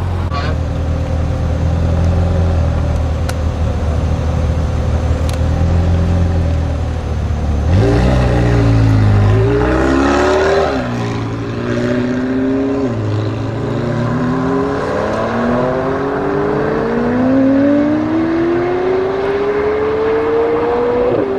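McLaren 720S twin-turbo V8 with a Capristo exhaust, first running at steady low revs with a low drone. About eight seconds in it revs up in a series of rising pitch sweeps, with sharp drops between them at the gear changes, then climbs in pitch for a long stretch under hard acceleration.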